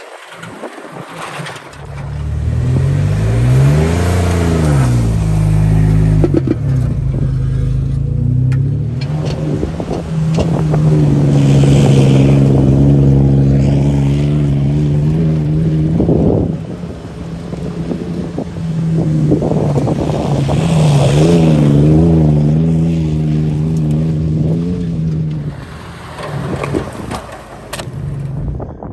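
2014 Ford F-150's 3.5-litre twin-turbo EcoBoost V6 running through a 3-inch MBRP cat-back exhaust, its pitch rising and falling twice as it is revved or accelerated, with a long steady stretch in between, then dying down near the end.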